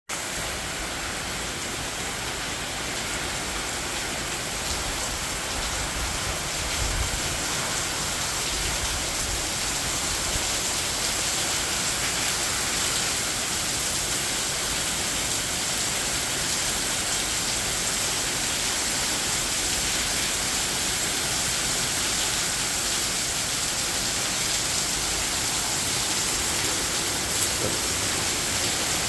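Heavy rain falling steadily in a continuous hiss, with wind; the wind rumbles a little harder about six to nine seconds in.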